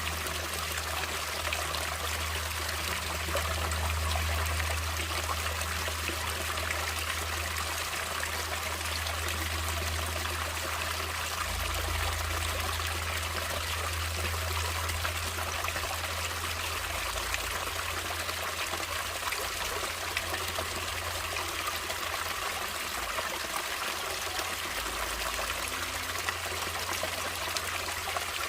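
Running water of a stream flowing and trickling over rocks, a steady even rush with a low rumble underneath.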